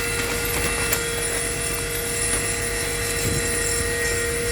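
Steady machine hum and rumble, with one constant tone held throughout.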